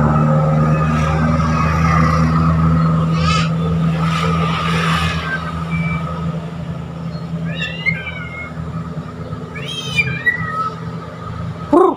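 A motor vehicle engine running steadily and slowly fading away. Over it a songbird gives short chirps and quick whistled phrases, with a loud brief rising call just before the end.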